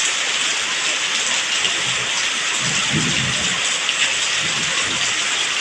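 Heavy tropical rain pouring steadily, a dense hiss of rain on surfaces, with a low rumble of thunder about three seconds in.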